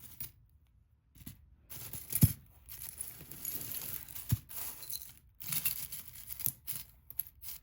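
Rustling and crinkling of packaging as jewelry is handled, in uneven bursts, with two sharp clicks, the louder one about two seconds in.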